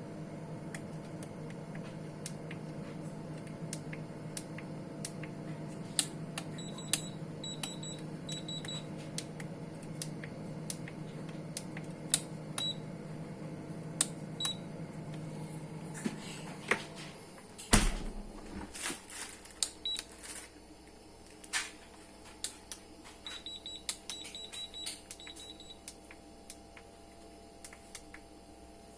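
A steady electrical hum that cuts off with a knock about two-thirds of the way through. Scattered clicks and handling knocks run throughout, and two runs of short high electronic beeps come in, one early and one near the end.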